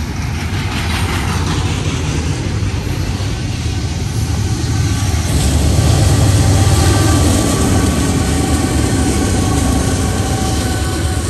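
Freight train passing close by: double-stack intermodal cars rolling on the rails with a steady, loud rumble. It swells a little about halfway through, when faint steady higher tones join in.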